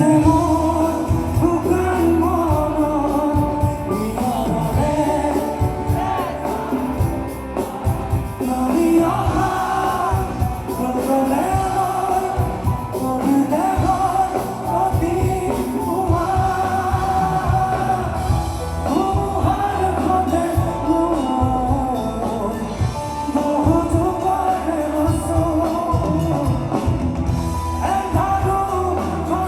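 Live band performance of an Assamese song, a lead vocal singing over drums and band instruments.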